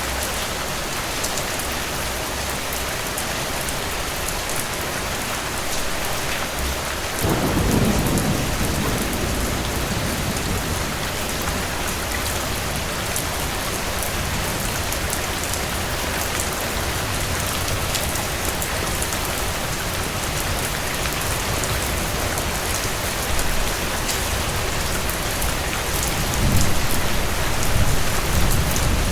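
Steady rain falling on surfaces, a constant hiss with scattered drop ticks. About seven seconds in, a roll of thunder rumbles low and fades over a few seconds, and another low rumble swells near the end.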